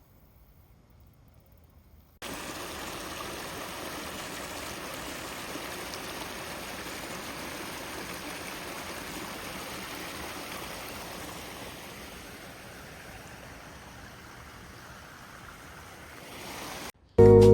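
Steady rush of running water, like a stream or fountain, cutting in suddenly about two seconds in and easing slightly toward the end.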